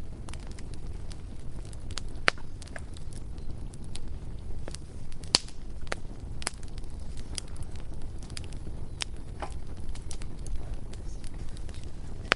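Bonfire crackling, with irregular sharp pops over a steady low rumble of burning, two louder snaps about two and five seconds in.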